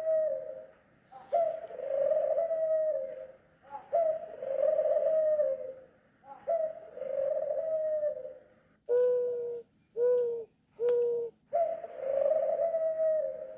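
Doves calling in a steady series of long calls of about two seconds each, then three short, clear notes in quick succession, then another long call.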